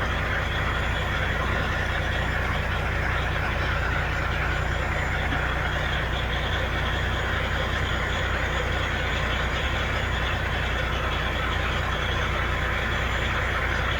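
Heavy diesel engine idling steadily, a constant low hum that does not change.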